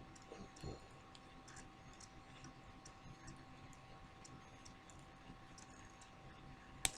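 Faint, scattered small clicks and ticks from handling an eyeliner pen and its packaging, with one sharp click near the end.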